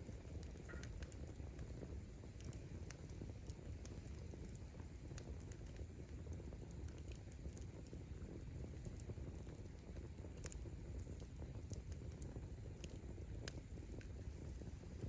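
Wood bonfire burning: a steady low rumble from the flames with scattered small crackles and pops from the burning firewood.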